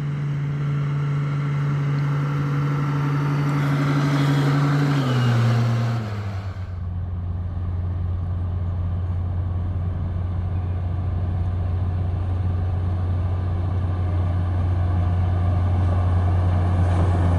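Heavy diesel engine of a construction machine running under load, a steady engine note that drops lower about five to six seconds in as the revs come down, then runs on steadily at the lower speed.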